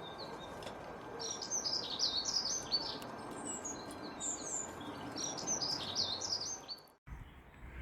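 Songbird singing in quick, repeated twittering phrases over a steady background hiss; the sound cuts off suddenly near the end.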